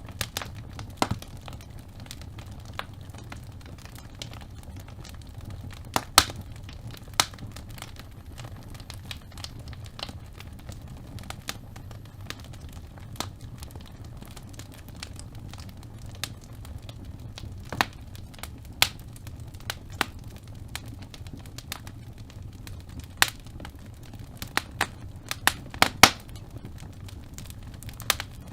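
Wood fire burning in a fireplace: a steady low rumble of flames with sharp crackles and pops scattered through it, coming in a quick cluster near the end.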